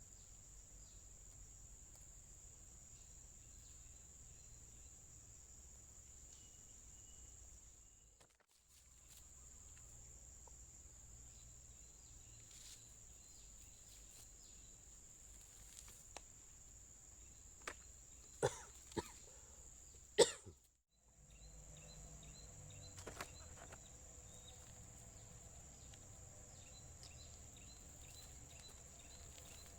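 Insects droning steadily at a high pitch, with a handful of sharp clicks or knocks in the middle; the sound drops out briefly twice.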